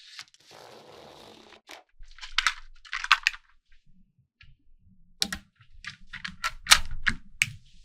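Small magnetic balls clicking and snapping together in clusters of quick, sharp clicks, with a soft scraping sound in the first couple of seconds.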